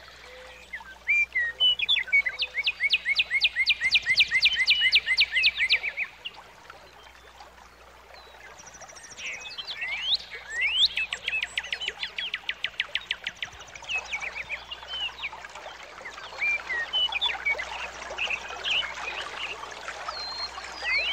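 Birds singing: fast trills of rapidly repeated high notes, two long trills separated by a pause, with scattered chirps and whistles between and after.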